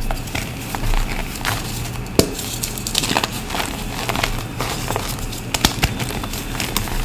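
Reformed gym chalk being crushed: an irregular run of dry crunches and crackles, with a few sharper snaps, the loudest a little after two seconds in.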